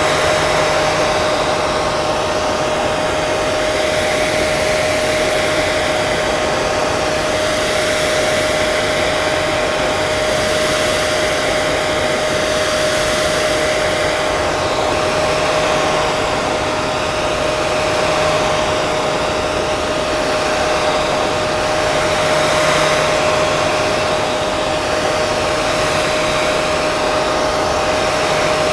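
Electric hair dryer running steadily: a constant airflow rush with a steady motor whine.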